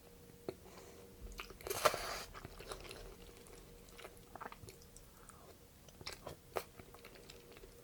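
Close-miked eating sounds of a person chewing and biting into seafood: scattered wet smacks and clicks, with one louder crunchy bite about two seconds in.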